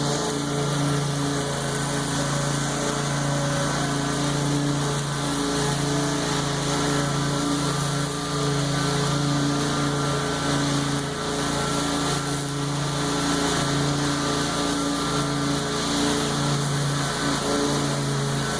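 Lawn mower engine running steadily under load while cutting overgrown tall grass, with a small dip in pitch and level now and then.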